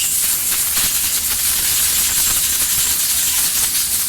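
Compressed air hissing steadily from an air line, with a low hum and a few faint clicks beneath.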